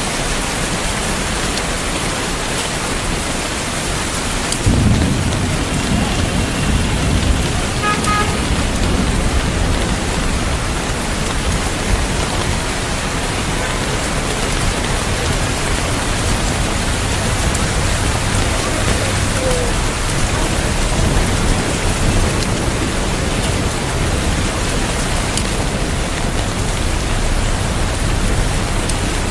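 Steady heavy rain falling, with a low rumble of thunder that breaks in about five seconds in and rolls on underneath the rain.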